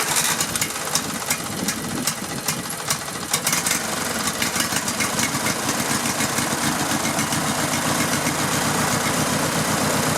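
Riding lawn mower engine, just started with the choke on, running unevenly for the first few seconds and then settling into a steady, even run. It is now getting fuel after a kinked fuel line was straightened.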